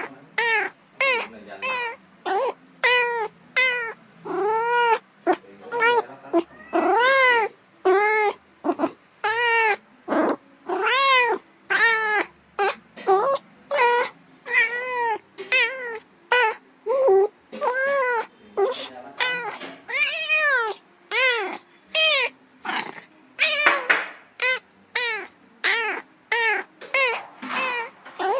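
A cat meowing over and over, one short rising-and-falling meow after another, about two a second.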